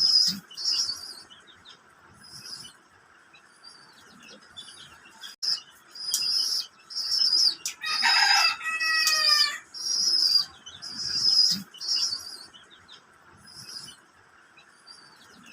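Pigeon squab begging while being fed: repeated short, high-pitched squeaks, with wing flapping. About eight seconds in, a longer, lower bird call falls in pitch over a second or so.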